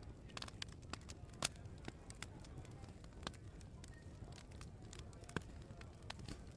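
Open wood fire crackling: irregular sharp pops and snaps, two louder ones about one and a half and five and a half seconds in, over a low steady background.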